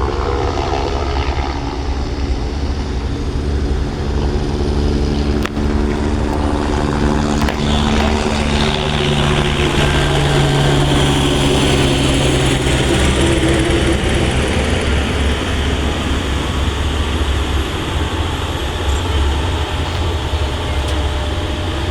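Tractor diesel engine running loud over a heavy low rumble, its pitch rising about eight seconds in and easing off after about fourteen seconds.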